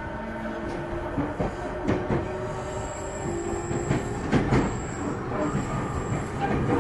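Interior running sound of a JR 209-series electric multiple unit motor car under way: a steady rumble of wheels on rail, with clicks of the wheels over rail joints. A thin, high-pitched squeal runs through the middle.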